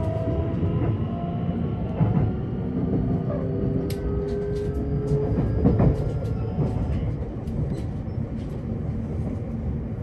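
JR Osaka Loop Line commuter train heard from on board: a steady rumble of wheels on rail with scattered clicks, and the traction motors' faint whine slowly rising in pitch over the first few seconds.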